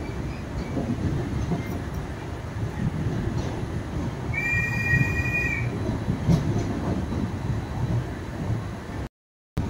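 LHB passenger coach rolling slowly through a station: a steady low rumble of wheels on rail, with a high-pitched steady tone lasting just over a second about halfway through. The sound drops out completely for a moment just before the end.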